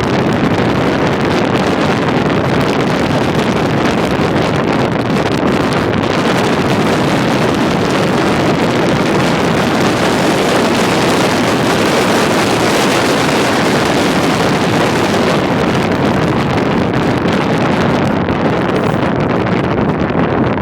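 Steady, loud wind noise rushing over the microphone in a moving car, mixed with the car's road noise.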